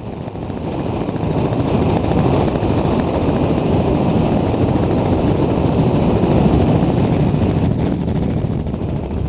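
A vehicle's engine running steadily with a dense, noisy rush, fading in over the first couple of seconds.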